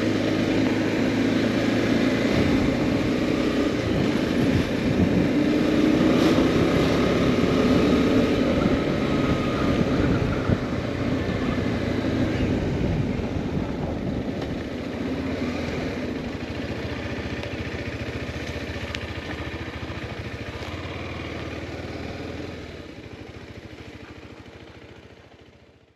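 Motorcycle running on the move, a steady engine sound under road noise, fading out over the last few seconds.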